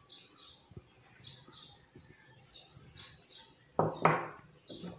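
Small birds chirping in the background, short high notes repeated in quick pairs. A brief louder rustle about four seconds in, as the camera is handled.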